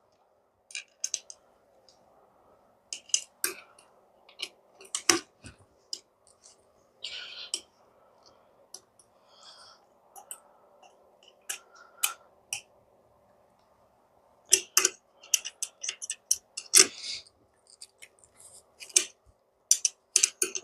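Scattered metallic clicks and taps of a 10 mm wrench working bolts as small saddlebag brackets are tightened, the clicks coming closer together in the second half.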